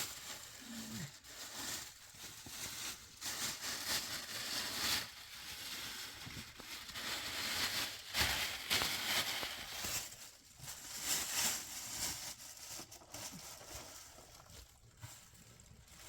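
Irregular rustling and crunching noises coming in uneven bursts, with a few sharp knocks.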